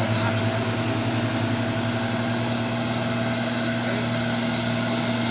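Truck diesel engine running steadily, a low even drone that does not rise or fall.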